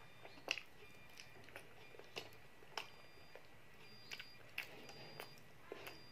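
A child chewing chicken satay, with soft, irregular wet smacking clicks about twice a second.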